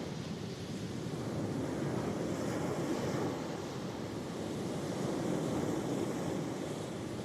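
Ocean waves breaking and washing up on the shore, a steady rush of surf that swells and eases gently, with some wind on the microphone.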